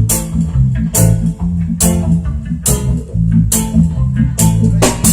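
A live band playing: a bass guitar line of held notes under guitar chords, with sharp strokes about once a second.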